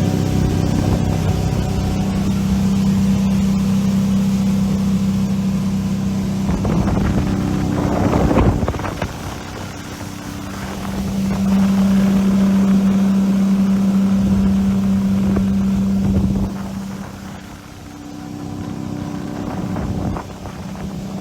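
Mercury 225 hp four-stroke outboard on a center console boat running steadily with a constant hum, and wind blowing on the microphone. The engine sound is loudest in two long stretches and eases off between them.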